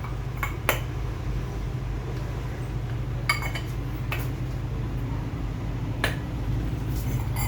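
Small metal turbocharger parts clinking against each other a few times during reassembly, over a steady low hum.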